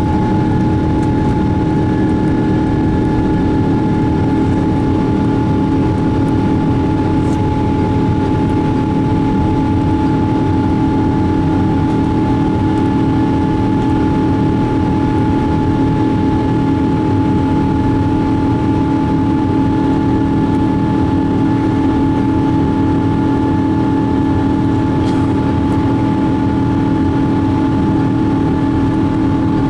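Boeing 777-200 jet engines heard from inside the passenger cabin: a steady drone with several constant tones over a broad rush of noise.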